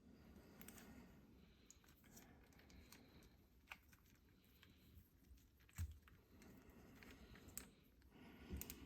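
Near silence with faint, scattered small clicks and two soft knocks, about six and eight and a half seconds in.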